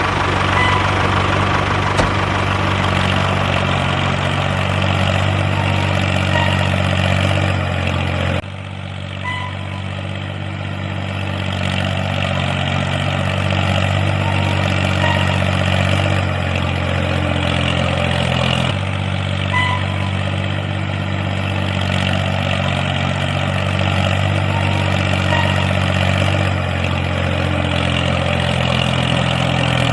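Tractor engine idling steadily with a low, even tone. Its pitch and level shift abruptly about 8 seconds in and again about 19 seconds in.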